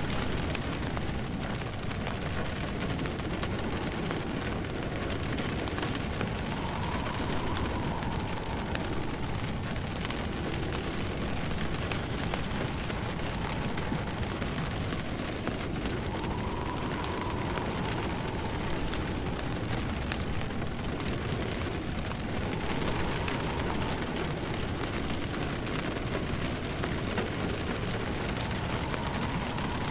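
Steady rain pattering with a crackling wood fire in a fireplace. A soft tone swells and fades a few times.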